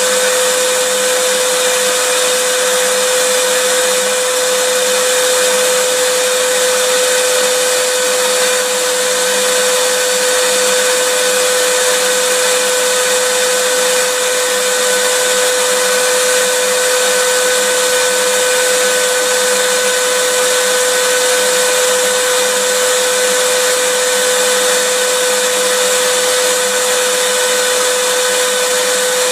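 Electric vacuum cleaner running steadily: a constant motor whine over a broad rushing hiss, with no change in speed.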